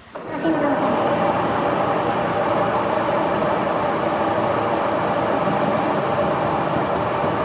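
Metal lathe running steadily, a continuous mechanical hum that starts abruptly just after the start.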